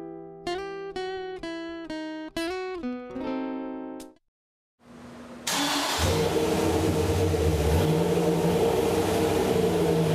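A short plucked-guitar phrase of about eight notes, a brief silence, then a Dodge Ram SRT-10's 8.3-litre V10 engine running loud and steady from about halfway in.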